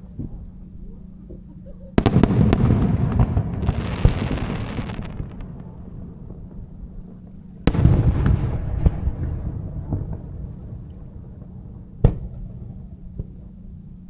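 Aerial fireworks bursting. A loud boom about two seconds in is followed by a rush of crackling. A second boom comes near the middle, its crackle fading away, and a single sharp bang sounds near the end.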